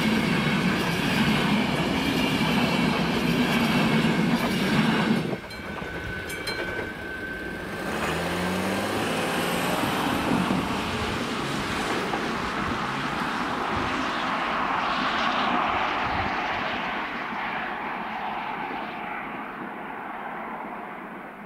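A passenger train's coaches run past on the rails with wheel clatter, and the noise cuts off sharply about five seconds in as the last coach clears the crossing. A car then pulls across the tracks, its engine rising in pitch as it speeds up, and its tyre noise swells and fades away.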